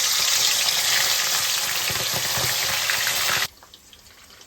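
Chicken pieces frying in hot oil, a loud steady sizzle that cuts off suddenly about three and a half seconds in.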